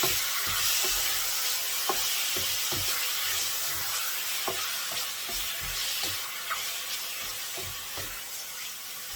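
Chicken wings sizzling in a pot of hot olive oil with fried onion and garlic, the sizzle easing slowly. Irregular short knocks come as a utensil stirs them in the pot.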